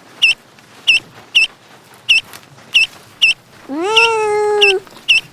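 A cat meows once, a long drawn-out call of about a second, near the end. A string of short, high-pitched peeps repeats throughout.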